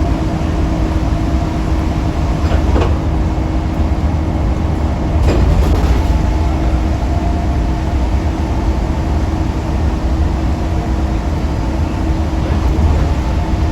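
Scania K310UB6X2 bus's five-cylinder diesel engine running with a steady low rumble and a steady whine over it. Two brief higher sounds come about three and five seconds in.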